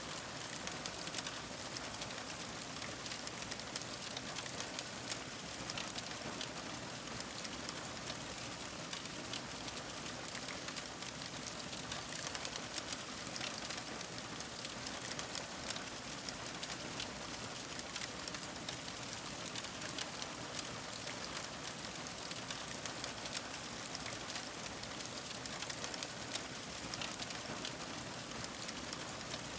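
Wood fire crackling steadily: a constant hiss dotted with many small, irregular pops and snaps.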